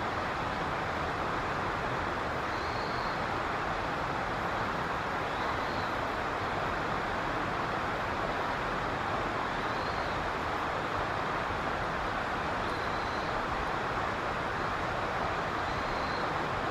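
Steady rushing background noise, even and unbroken, with a faint short high note repeating every three seconds or so.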